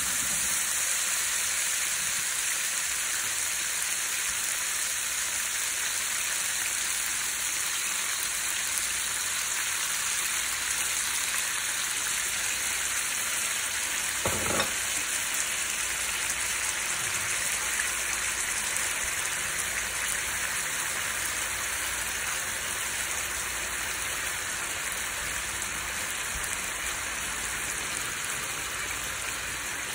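Chicken leg quarters frying in oil and pan juices in a frying pan, a steady sizzle. A single short knock about halfway through.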